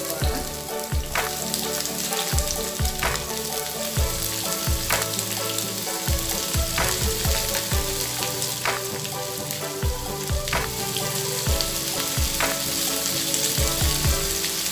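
Freshly added sliced onions sizzling in hot coconut oil with chopped garlic and ginger in a frying pan, a steady hiss.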